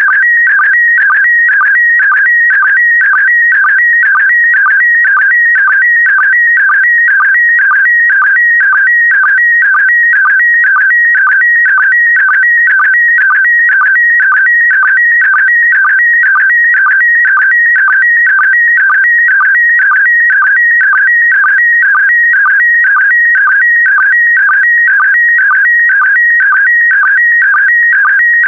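Slow-scan TV image signal in PD120 mode: a continuous stream of shifting high-pitched tones that repeats about twice a second, each repeat carrying a pair of picture lines.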